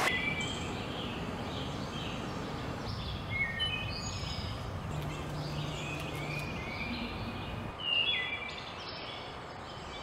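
Birds calling in a series of short chirps and whistled notes, some rising and some falling, over a steady outdoor background noise.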